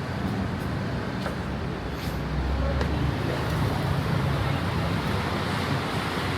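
Road traffic noise: a steady rumble of passing vehicles that grows louder from about two seconds in.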